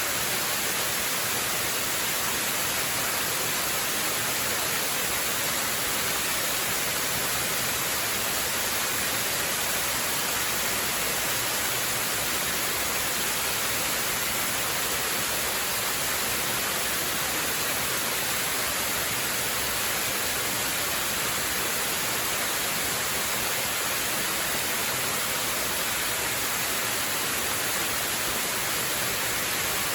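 Waterfall: a steady, unbroken rush of falling water, an even hiss weighted toward the highs.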